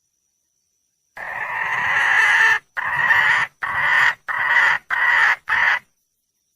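Red junglefowl hen calling: one long, harsh call of about a second and a half, then five shorter calls in quick succession.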